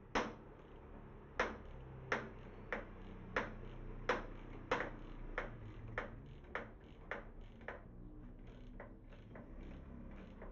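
Metal-on-metal hammer blows, about one every two-thirds of a second, striking the pump rotor shaft and bearing to drive the bearing off. The first several strikes are sharp and ringing, then they grow lighter and fade out after about eight seconds.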